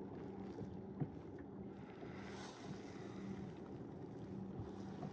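Wind on the microphone and water noise around a small kayak anchored at sea, under a faint steady low hum, with one sharp click about a second in.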